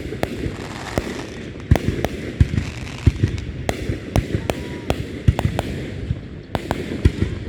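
Fireworks going off in a display: an irregular run of sharp bangs and cracks, several a second, over a continuous low rumble of more distant bursts.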